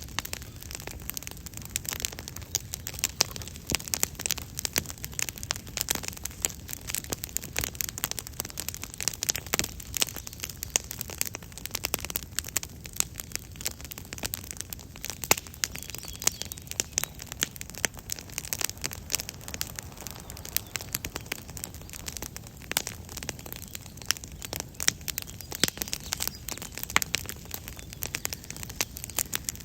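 Campfire crackling: frequent, irregular sharp pops and snaps over a steady low rumble.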